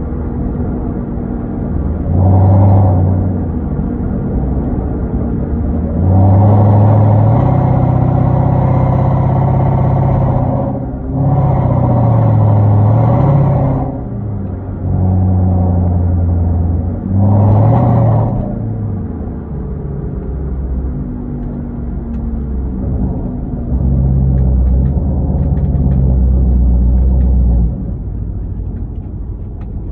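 Hyundai Genesis 5.0's V8 running through a straight-piped 2.5-inch exhaust with Flowmaster Super 10 mufflers and no catalytic converters, while driving. It holds a steady cruising note broken by several louder throttle pulls, the longest lasting about four seconds, with the pitch rising and falling as revs climb and the gears change.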